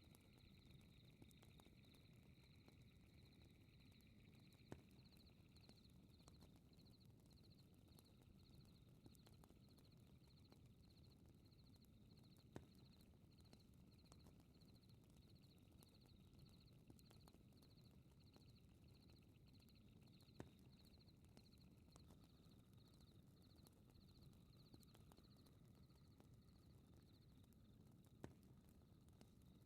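Faint fireplace ambience: a steady low fire hiss with four sharp pops spaced evenly through it, under a high chirping that pulses a few times a second.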